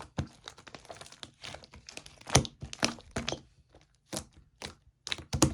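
Chewy clay slime being squeezed and pressed by hand, giving off irregular sticky clicks and small air pops, one louder pop about halfway through and a quick run of clicks near the end.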